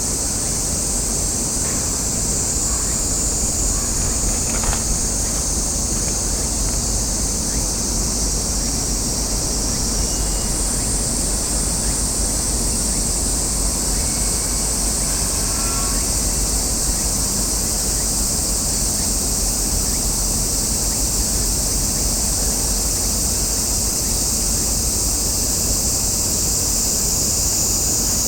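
Steady, high-pitched outdoor insect chorus, with a constant low rumble of wind on the microphone underneath.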